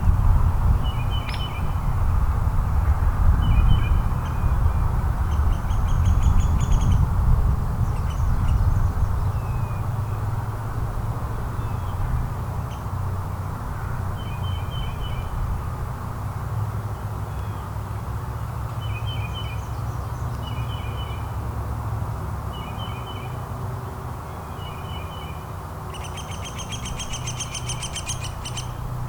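Wild birds calling: short chirps repeated every second or few seconds, and two longer harsh, buzzy calls, one early on and one near the end. Under them runs a steady low rumble.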